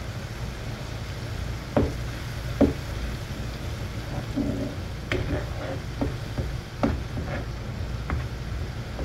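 Onion-and-spice masala with a splash of water sizzling and bubbling in a pan while a spatula stirs and scrapes it: the masala is being braised before the eggs are added. There are two sharp knocks of the spatula on the pan about two seconds in and a run of lighter taps and scrapes in the second half, over a steady low hum.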